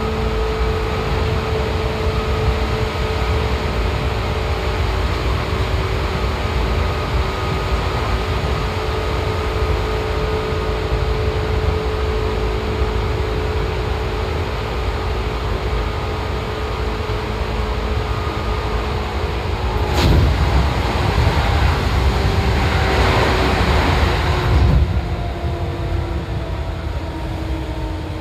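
Seibu old 2000 series electric train running, with a steady rumble and a steady motor whine of several held tones. About twenty seconds in there is a sharp click, then a few seconds of hiss. Near the end the whine's tones slide down in pitch.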